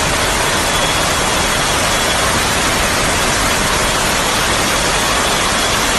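Loud, steady rush of water, unbroken and without any rhythm or single impacts.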